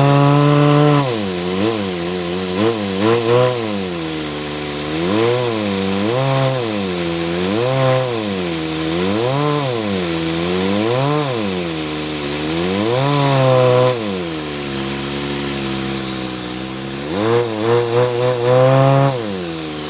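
LEGO vacuum engine model running, a motor buzz that rises and falls in pitch about every one to two seconds as the mechanism cycles, over a steady high whine.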